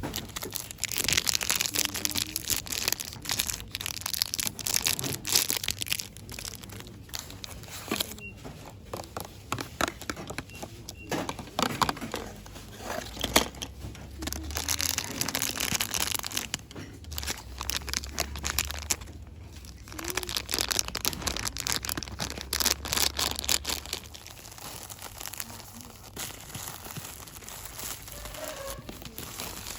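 Close-up crinkling and rustling of packaging, fast and irregular, in dense bursts with short lulls.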